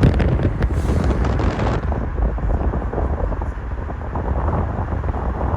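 Low, heavy rumble of a passing train, with wind buffeting the microphone; the higher noise drops away about two seconds in, leaving the rumble.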